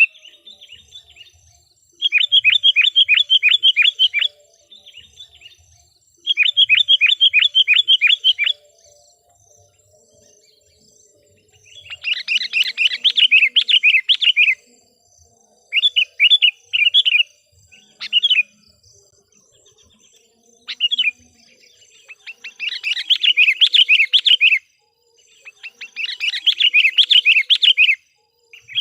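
Sooty-headed bulbul (kutilang) calling in several bursts of rapid, evenly repeated chattering notes, each burst lasting about two seconds, with short pauses between. It is a decoy bird's call, used to draw in wild bulbuls.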